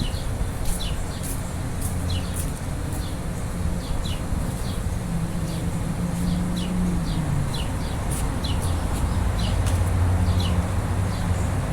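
Short, high falling chirps repeating irregularly, about one or two a second, over a steady low hum that grows louder about halfway through and again near the end.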